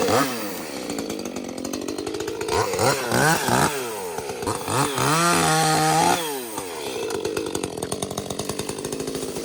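Small ported Echo CS-310 two-stroke chainsaw just restarted after sitting. It drops from a high rev to idle, is blipped up and down a couple of times, holds a higher rev for about a second, then settles back to a slightly uneven idle.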